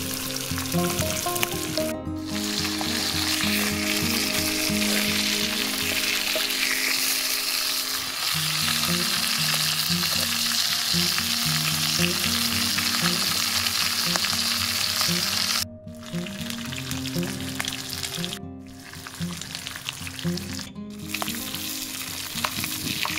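Fish pieces sizzling as they fry in hot oil in a clay pan, a steady dense crackle. The sizzle cuts out abruptly three times in the last third and is somewhat quieter from the first cut on.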